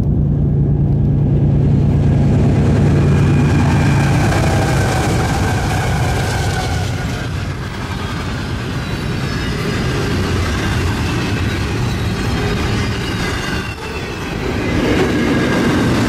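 Union Pacific freight train passing close by. Its diesel locomotives run with a steady low drone for the first few seconds, then the freight cars roll past with a continuous rattle and clatter of wheels on rail, with faint high wheel squeal.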